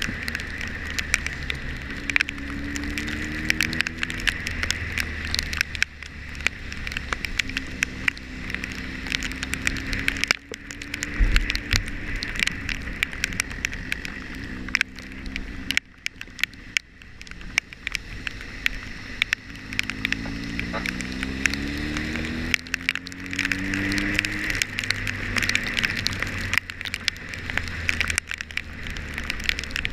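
Motorcycle engine running on a wet road, its pitch climbing as it accelerates about two seconds in and again at about twenty seconds, with wind noise and many raindrops ticking against the microphone.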